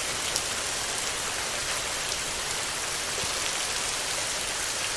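Steady heavy rainfall, an even hiss with faint scattered drop ticks.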